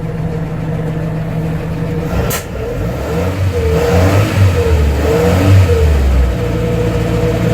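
Universal Atomic 4 four-cylinder gasoline inboard engine running steadily after repair, sounding much better. There is a sharp click a little over two seconds in, and the engine note shifts up and down between about three and six seconds in.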